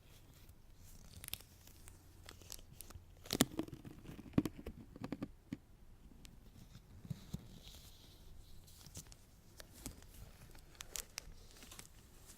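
Latex-gloved hands working sticky lotion: irregular crackling and peeling snaps as the gloves stick and pull apart, with a louder cluster of snaps about three to five seconds in.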